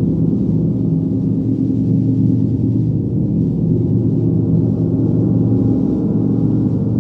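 Sound-bath gong ringing continuously in a steady wash of low, overlapping humming tones, with no distinct strikes.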